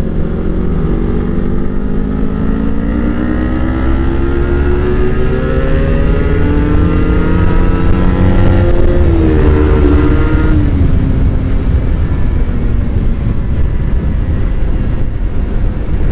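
Motorcycle engine pulling under acceleration, its pitch climbing slowly for about nine seconds, then falling away around the tenth second as it lets off. A steady low rumble runs underneath.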